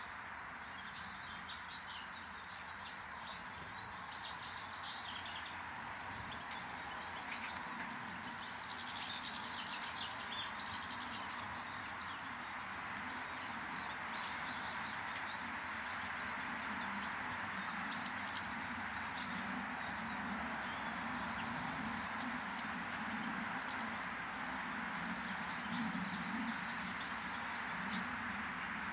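Small garden birds chirping and twittering over a steady background hiss, with a busy flurry of chirps about nine to eleven seconds in.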